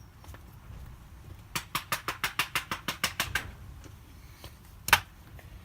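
A caked vacuum cleaner filter being bashed against a hard surface to shake out the dust. It gives a rapid run of about a dozen knocks, then one louder single knock near the end.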